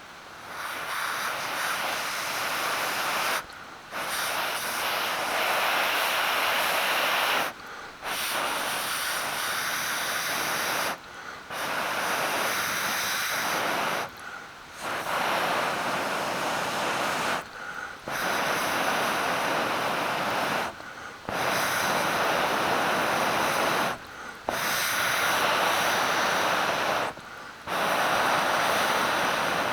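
Steady rushing noise in stretches of about three seconds, each cut off abruptly by a brief gap before it resumes.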